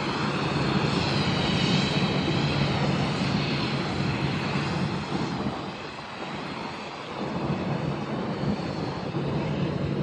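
Airliner engines running, a steady rush of noise with a high whine that wavers in pitch during the first few seconds; the noise dips briefly about six seconds in before picking up again.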